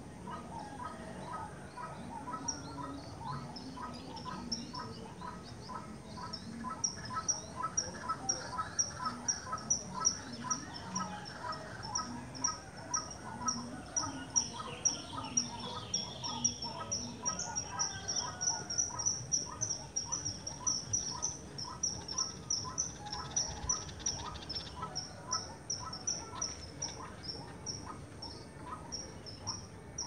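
Birdsong of the bird called sri mbombok in Javanese: a long run of short, high chirps repeated a couple of times a second, with lower chirping notes alongside, loudest through the middle.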